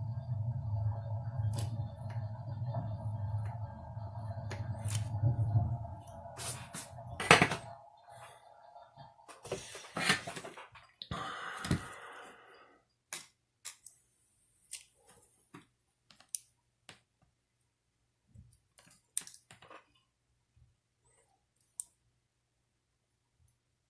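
A small electric tool hums steadily, then switches off with a loud click about seven and a half seconds in. Scattered clicks and rustles of small parts being handled follow.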